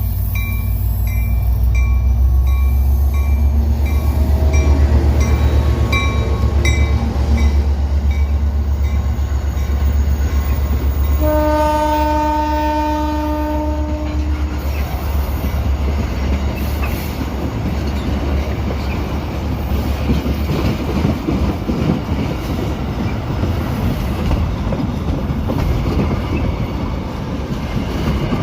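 EMD diesel freight locomotive passing close by, its engine a loud low drone, with a regular ringing ding about twice a second during the first seven seconds. About eleven seconds in the air horn sounds one chord for about three seconds. After that the engine fades and the freight wagons roll past with a steady clickety-clack of wheels on rail joints.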